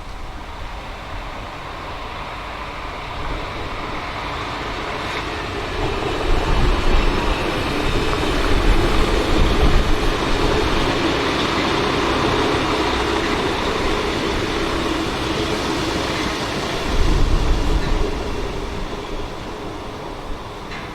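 A train running past: a rumbling, rushing noise that builds up, is loudest through the middle with a brief surge near the end, then eases off.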